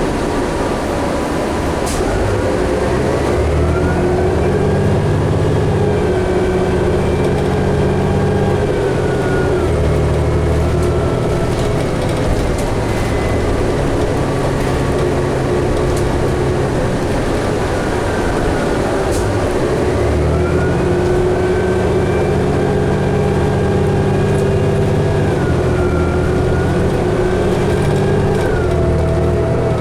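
2011 New Flyer D60LFR articulated diesel bus under way, heard from inside: the engine pulls up twice as the bus accelerates, with a whine rising in steps through the gear changes and easing off in between.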